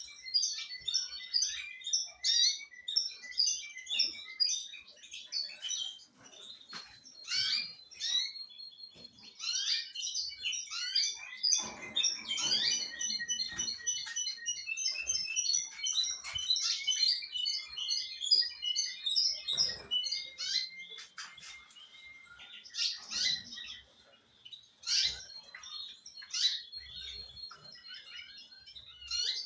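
Caged songbirds chirping and singing in fast, overlapping twittering phrases, with some long held whistled notes.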